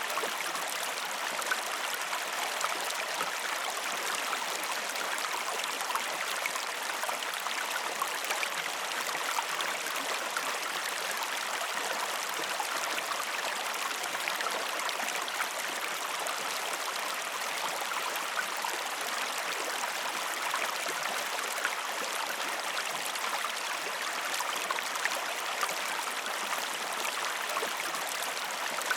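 Flowing river water: a steady babbling and trickling over stones, with no change or break.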